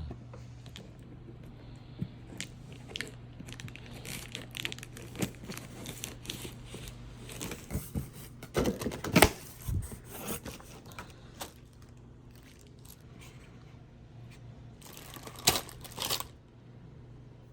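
Packaging on a new grill being torn open and crumpled: a run of small tears, rustles and crinkles. Two louder knocks come about nine seconds in and near the end.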